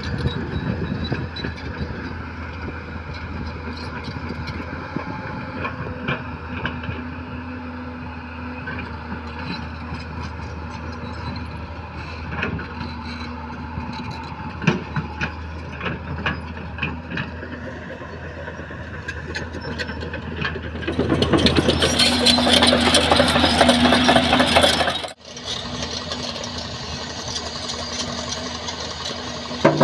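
Diesel engines of road-building machinery running steadily, with scattered clanks and knocks. About two-thirds of the way through the sound grows much louder and harsher for about four seconds, then drops away abruptly before the steady running returns.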